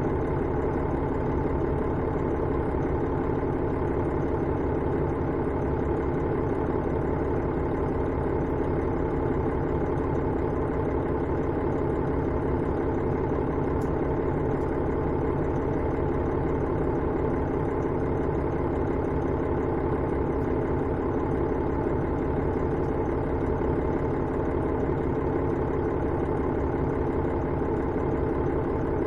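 Diesel engine of a KiHa 110-series railcar, heard from inside the car, running at a steady, unchanging note.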